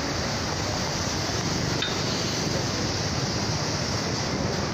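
Steady rush of water from heavy rain or floodwater, with a faint click about two seconds in.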